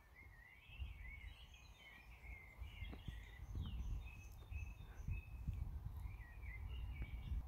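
Songbirds singing in a chorus of short warbling phrases, over a low rumble of wind on the microphone.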